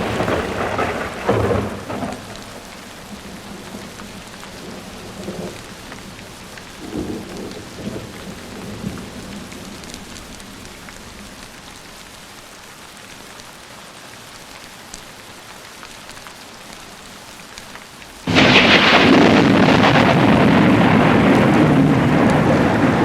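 Thunderstorm with steady rain. A thunder rumble dies away in the first couple of seconds and a few fainter rumbles follow. Near the end a sudden loud crash of thunder breaks in and stays loud.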